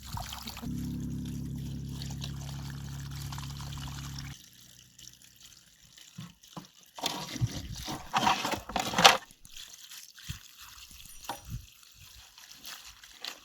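Water trickling and being poured. A steady low hum runs through the first few seconds and then stops. A louder splashing stretch comes later and ends in a sharp peak.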